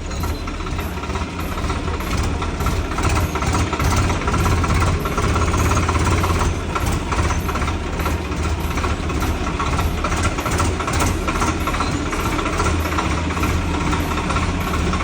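An engine running steadily at a low, even speed, with a fast rhythmic beat.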